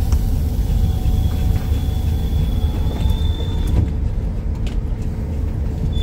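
Steady low road rumble inside a Class B campervan's cabin while driving.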